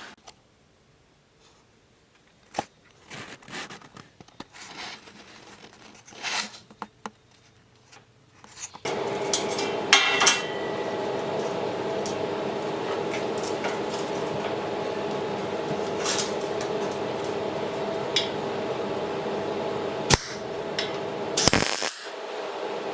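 Metal parts clinking and knocking as they are handled in a workshop. About nine seconds in, a steady machine noise with a constant hum starts and runs on, with a few sharp metal clanks over it.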